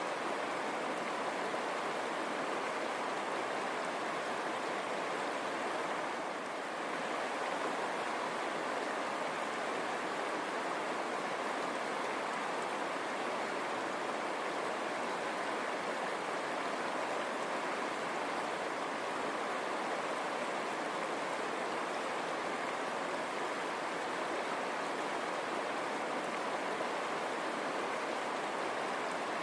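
River water running over stones: a steady, even rushing with no breaks.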